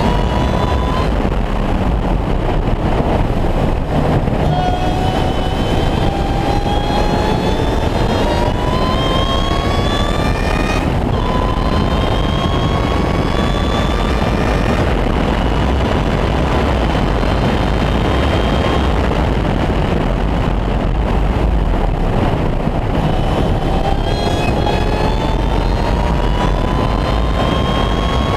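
Ariel Atom 3.5 Supercharged's supercharged Honda 2.0-litre four-cylinder engine under hard acceleration on track. Its pitch climbs with the revs, drops sharply at an upshift about eleven seconds in, fades, then climbs again near the end. Heavy wind noise runs throughout from the open cockpit.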